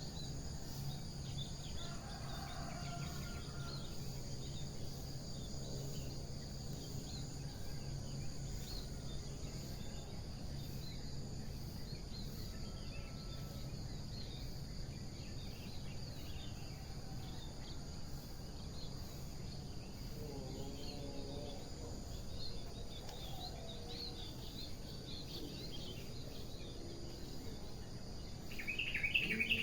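Dawn ambience: a steady insect chorus over a low hum, with scattered faint bird chirps and a few lower-pitched calls. Near the end, a bird breaks in close by with a loud run of rapid repeated chirps.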